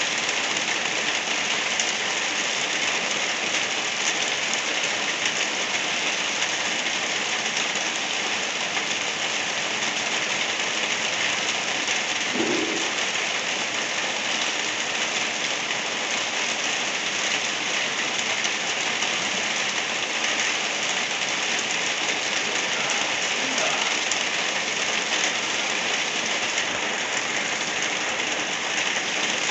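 Steady, gentle rain falling and pattering on surfaces, an even hiss that keeps up without a break.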